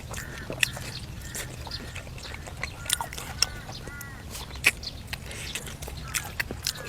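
Birds chirping in short, repeated arched calls, over the sharp clicks and smacks of someone chewing food.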